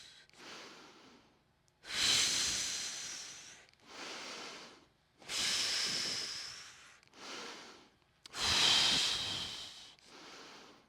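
A person breathing heavily and audibly, hissing breaths: three long, loud breaths, each followed by a shorter, softer one.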